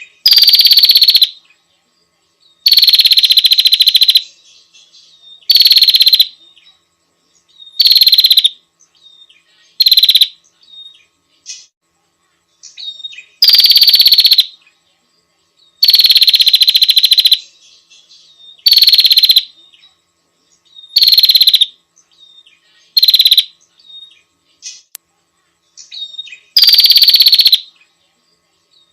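Female prinia (prenjak) calling, as played for a bird lure: loud, rapid trills, each half a second to a second and a half long, repeated about eleven times at uneven gaps, with faint short chirps in between.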